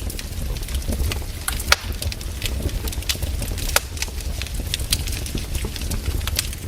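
Firewood burning: irregular sharp crackles and pops over a steady low rumble.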